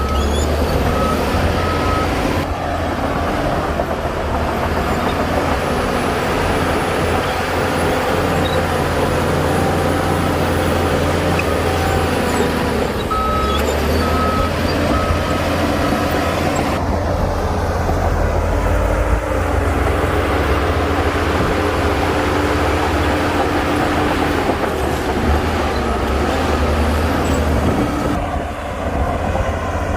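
Heavy diesel earthmoving machinery running steadily under load. A reversing alarm gives a short run of about four high beeps near the start and again around halfway.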